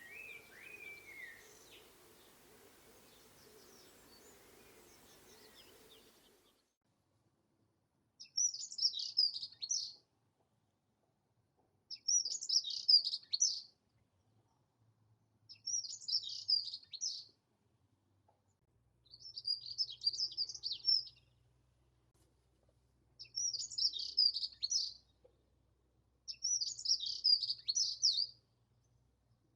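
Dunnock singing: short, fast, high-pitched warbling phrases of about two seconds each, repeated every three to four seconds, six times. Before the song, a faint outdoor hiss with a few faint bird notes cuts off at about six seconds in.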